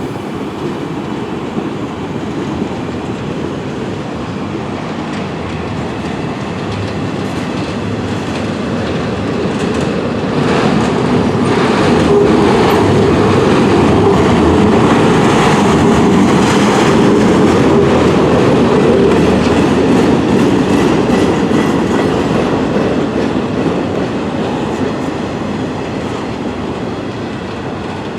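Freight cars, among them autoracks, rolling past close by: a steady rumble and clatter of steel wheels on the rails that grows louder about ten seconds in and eases off near the end.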